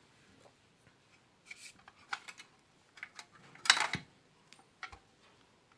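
Screwdriver clicking and scraping against the terminal screws of an electric iron as the cord's wires are loosened and disconnected: a handful of separate short clicks, the loudest about three and a half seconds in.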